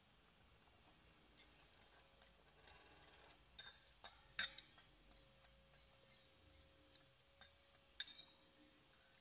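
Close-up chewing of crunchy vegetable salad: a steady run of small crisp crunches, about three a second, starting about a second and a half in and stopping about eight seconds in.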